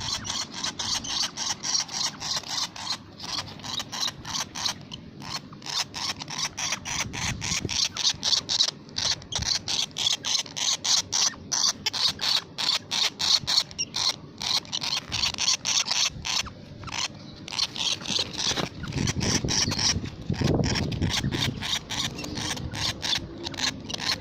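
Lovebird singing 'ngekek': a long, unbroken run of rapid, sharp, high chirps. A low rumble joins in under it briefly past the middle.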